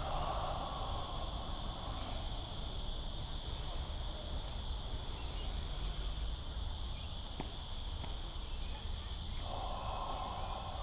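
Steady chorus of insects, crickets or similar, holding a continuous high-pitched buzz over a low rumble, with a short spell of mid-pitched noise at the start and again near the end.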